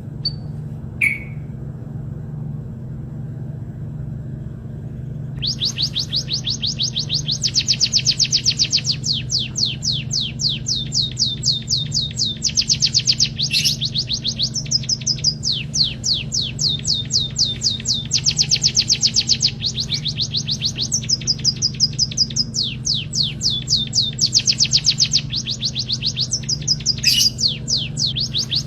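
Emprit kaji (white-headed munia) singing: fast trills of rapidly repeated high chirps in phrases of one to two seconds with short breaks, starting about five seconds in after a few single chirps. A steady low hum runs underneath.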